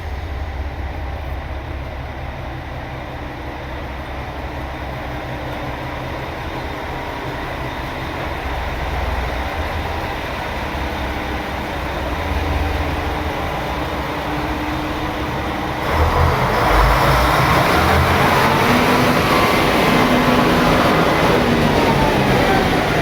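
Train running on rails with a steady low rumble. About two-thirds of the way through it suddenly gets louder and harsher, with several whining tones gliding down in pitch.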